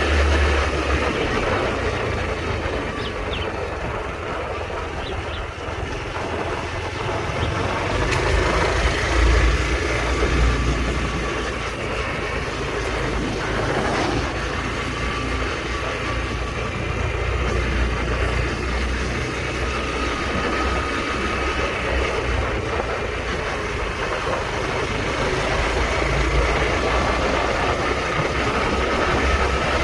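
Honda Trail 125's single-cylinder engine running at road speed during a ride, under a continuous rush of wind on the microphone whose low buffeting swells and eases.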